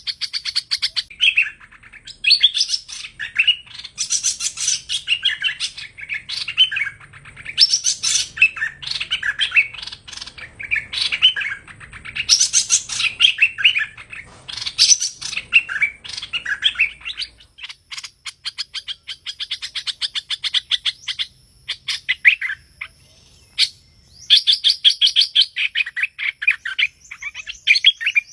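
A hoành hoạch bird, the songbird sold as a trapping lure call, singing rapid, varied chirping phrases in a nearly continuous run, thinning to scattered notes past the halfway point before a fresh burst of song near the end.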